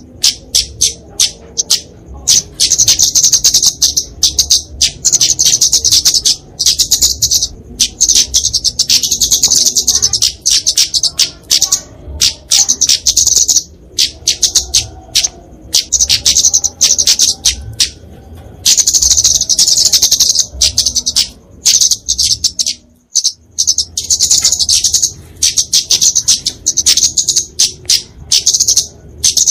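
Flowerpecker (kemade, genus Dicaeum) giving its aggressive fighting song: rapid, high-pitched chips and ticking trills in long dense runs, broken by brief pauses.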